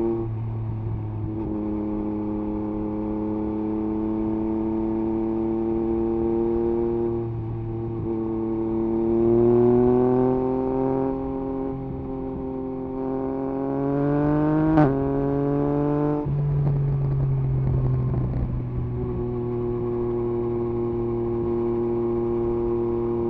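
2021 Yamaha MT-09 SP's 890 cc inline-three running through an Akrapovič exhaust with the dB killer removed. It holds a steady note, then climbs in pitch under acceleration for several seconds. A short sharp crack comes near the top, then the throttle closes and the note drops. The engine settles back to a steady note near the end.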